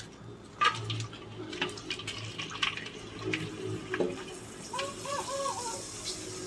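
Water running and splashing with scattered clatter and knocks, and a chicken clucking a few times about five seconds in.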